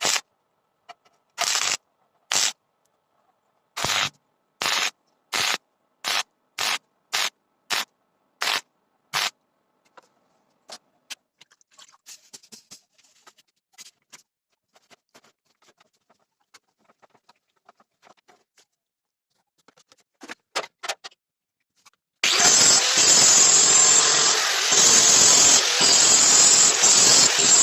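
A run of short, evenly spaced bursts of noise, then scattered faint clicks, then a power tool starting about 22 seconds in and running loudly and steadily.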